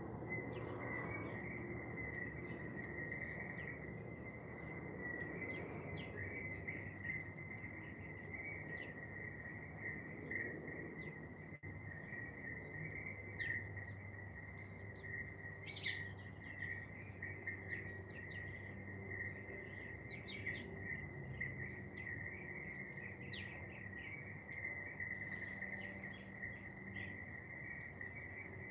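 Garden ambience: a steady, high insect trill runs throughout, with scattered short bird chirps and calls over it. A low, steady hum sits underneath.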